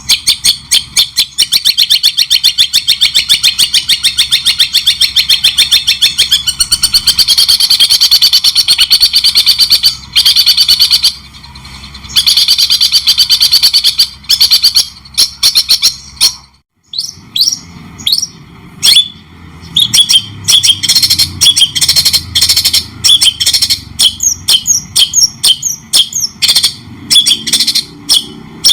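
Songbird song: loud, fast chattering trills of rapidly repeated notes for the first half, then, after a brief break about two-thirds of the way through, a series of separate sharp rising whistles repeated over and over.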